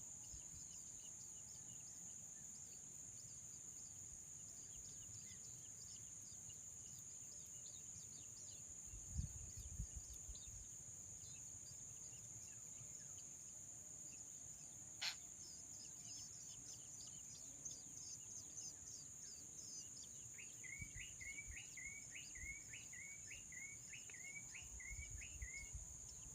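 Faint outdoor ambience: a steady high-pitched insect drone with scattered small bird chirps. Near the end comes a run of about ten short, repeated bird call notes at roughly two a second. A few dull thumps and one sharp click also sound.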